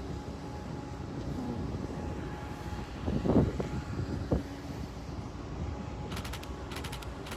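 Steady low rumble with a faint hum from a large ferry's engines as the ship leaves port. There is a louder surge about three seconds in, a sharp knock a moment later, and bursts of rapid rattling clicks near the end.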